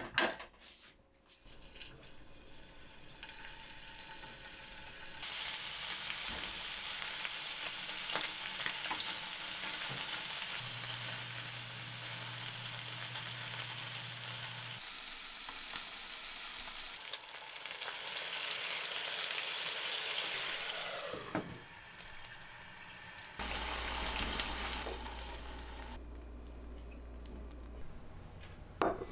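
Pork-wrapped mochi rolls sizzling in hot oil in a frying pan, a dense steady sizzle that starts about five seconds in, with a few light clicks from metal tongs turning them. The sizzle dies down about two-thirds of the way through, then briefly returns.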